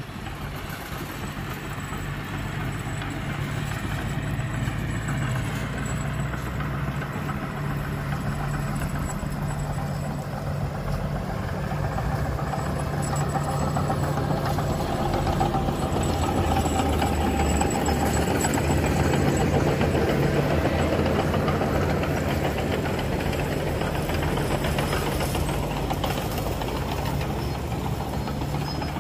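Heavy diesel engine of construction machinery running steadily with a low, even hum, growing louder over the first half.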